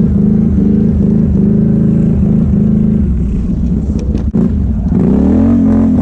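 Can-Am ATV engine running hard while the quad pushes snow with its plow blade, the note dipping briefly about every half second. About four seconds in the engine drops off sharply with a couple of knocks, then revs back up near the end.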